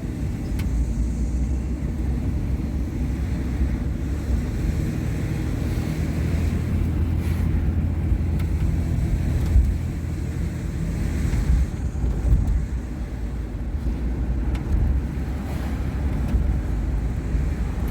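Steady low rumble of road and engine noise heard from inside a moving car's cabin, with some wind noise.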